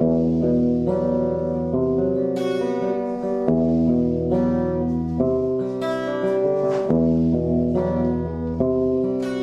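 Instrumental passage of a song: acoustic guitar strumming chords, a new strum about every second, over a bass line, with no singing.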